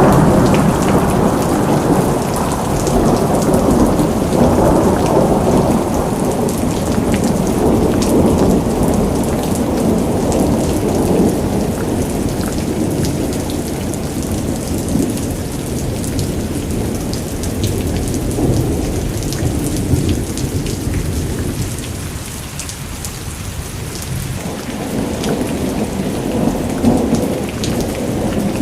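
Steady rain with low rumbling thunder that swells and eases throughout, softening a little over twenty seconds in before building again.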